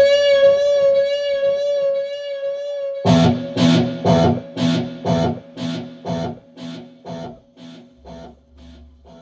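Electric guitar holding a high sustained note with slight vibrato. About three seconds in, a new note is struck and repeats through a ping-pong delay about twice a second, each echo quieter until it fades out.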